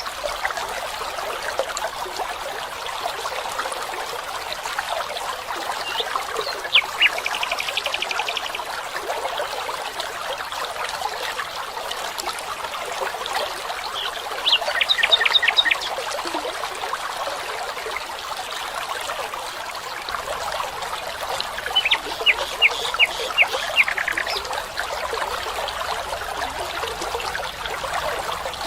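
Steady trickling of a stream, with a bird calling three times over it in short series of rapid, sharp notes.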